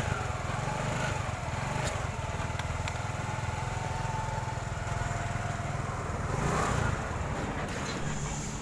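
TVS Jupiter scooter's freshly rebuilt single-cylinder four-stroke engine running steadily after being fixed from a seized state.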